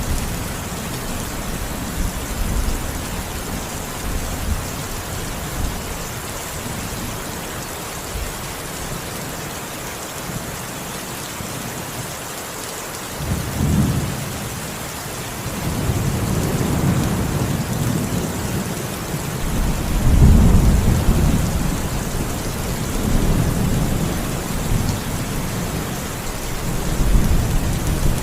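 Steady heavy rain hissing on a surface, with thunder rumbling low beneath it. The rumble fades out before the middle, rolls back in about halfway through, is loudest about two-thirds of the way in and swells again near the end.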